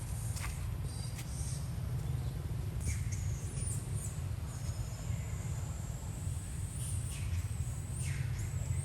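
High-pitched animal squeaks and chirps, several short ones and a falling call near the end, over a steady low rumble.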